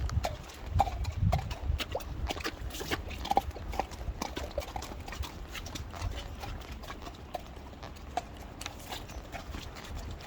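Hoofbeats of a ridden horse, an irregular run of clops, with a low rumble in the first couple of seconds.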